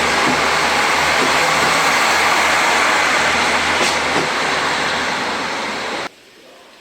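Train running at a station platform: a loud steady rush of noise over a low engine hum, easing slightly, then cutting off suddenly about six seconds in.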